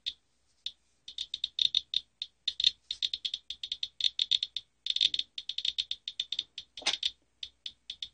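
Geiger counter (Rad Alert Inspector) clicking: a few scattered clicks, then about a second in a fast, irregular run of clicks as it is held close to a used furnace filter. The high count rate shows radioactive particles trapped in the filter, which the owner assumes come from radon.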